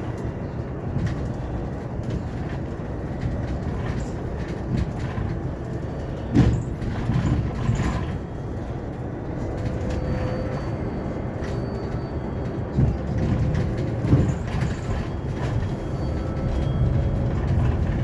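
Cabin noise of a Hyundai Elec City 2 electric city bus driving: a steady low road rumble with rattles and knocks, the loudest thud about six seconds in.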